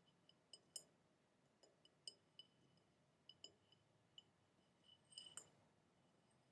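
Faint, irregular light taps on a glass container, each with a brief high ring. The taps come one at a time, with a quick little cluster about five seconds in.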